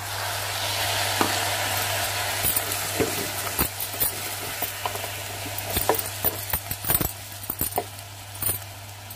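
Rice and vegetables frying in oil in a pressure cooker, sizzling up as lemon juice goes in and then slowly dying down. A spoon stirs and knocks against the pot many times.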